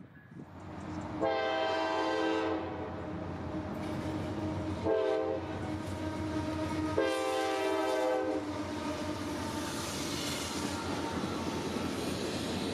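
A freight locomotive's air horn blows a long blast, a short blast and a long blast. Then the train's covered hopper cars rumble and clatter steadily past.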